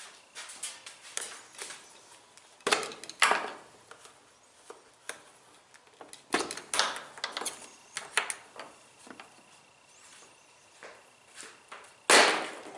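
Irregular clicks, knocks and short scrapes of hand tools and washing-machine panels and parts being handled during a teardown, with the loudest knock near the end.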